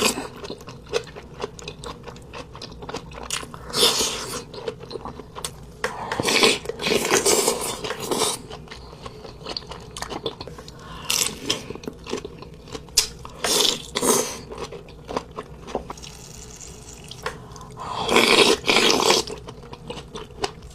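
Close-miked chewing and crunching of crab in irregular bursts, with wet mouth sounds and small clicks between them.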